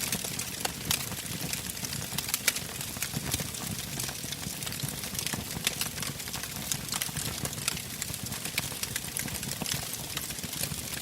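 Wood fire burning, crackling with frequent irregular sharp pops over a steady hiss and low rumble of the flames.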